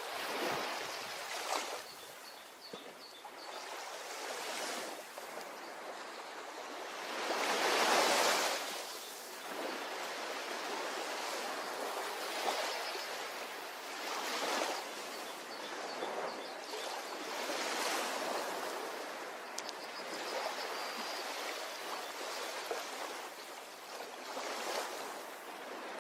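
Ocean waves breaking and washing up a beach, in repeated swells of rushing surf, the biggest about eight seconds in.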